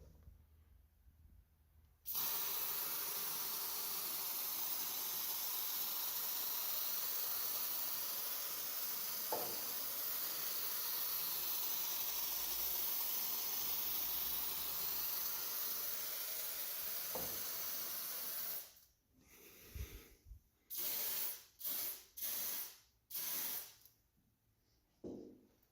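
Aerosol can of garage door lubricant spraying through its nozzle: one long, steady hiss of about sixteen seconds, then a series of short spurts near the end.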